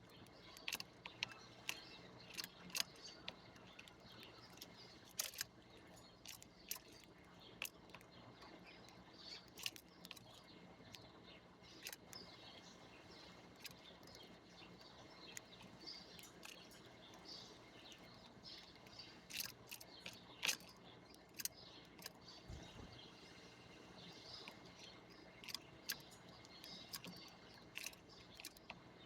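Faint chirping of small birds, with many scattered sharp clicks throughout.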